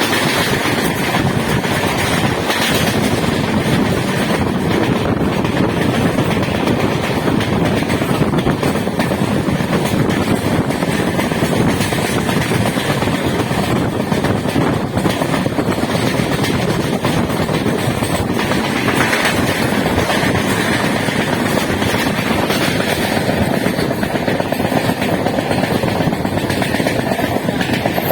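Steady, loud running noise of a moving train, heard from on board.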